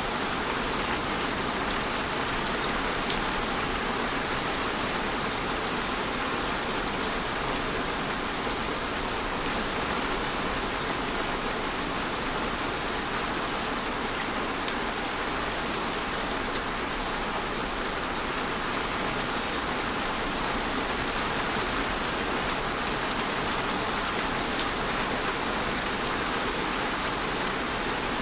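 Steady rainfall on a surface, an even hiss with scattered small drop patters.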